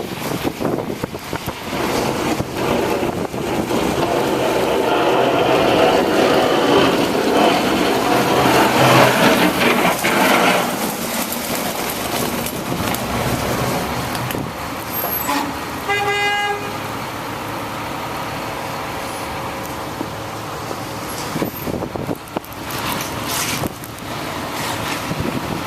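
City street traffic noise, a steady hiss that grows louder through the first half, with a car horn honking once for about a second and a half around two-thirds of the way through.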